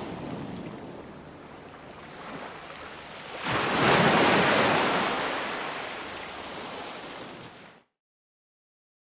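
Ocean waves breaking: one wave crashes about three and a half seconds in, the loudest moment, and its wash slowly fades. Near the end the sound cuts off abruptly to dead silence.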